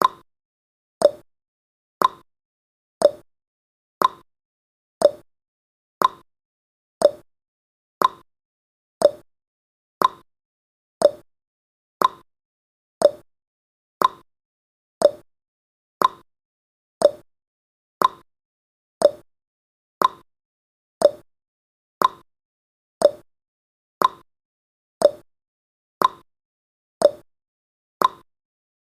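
Countdown timer tick sound effect: a short, sharp click once every second, each dying away quickly, in an even steady rhythm.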